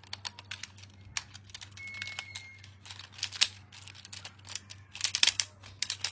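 Irregular quick clicks and taps from hands handling small toys and their packaging during an unboxing, with a dense flurry of clicks about five seconds in.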